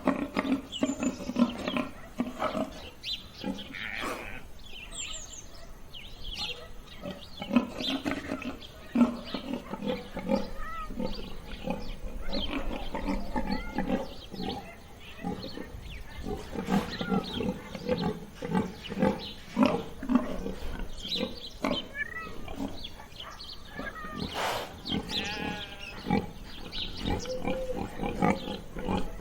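Pigs grunting and squealing in a busy, irregular stream of short calls.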